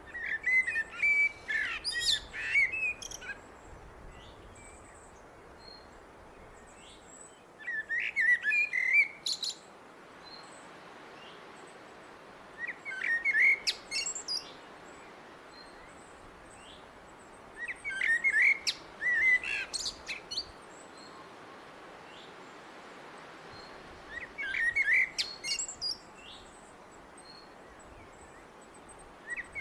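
Blackbird singing: phrases of a low, fluty warble followed by a high, squeaky twitter, repeated about every five to six seconds with quiet pauses between.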